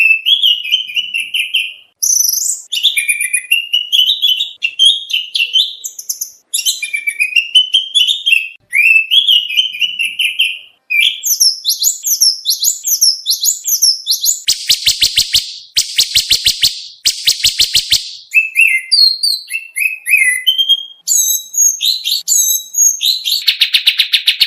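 Oriental magpie-robin (kacer) singing a long, varied song of repeated whistled phrases, typical of the mimicked 'material' used to train competition birds. It breaks into three harsh buzzy notes about two-thirds of the way through and into quick chattering trills near the end.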